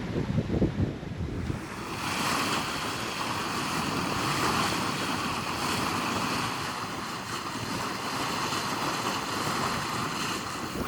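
Wind buffeting the microphone, then, from about a second and a half in, a steady rushing hiss of water along the hull of a sailboat under way.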